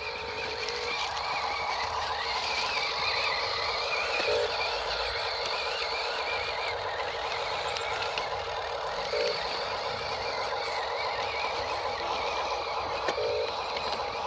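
Huina 1582 radio-controlled mining truck's electric drive motor and gears whining, the pitch wavering as the throttle changes. A short buzz comes about 4, 9 and 13 seconds in.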